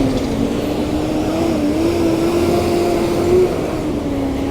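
A motor running steadily, with a hum that wavers slightly in pitch over a noisy background.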